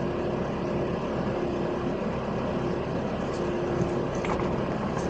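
Inside the cabin of a LiAZ 5292.65 city bus while it drives: steady engine and road noise with a low rumble and a hum that fades in and out.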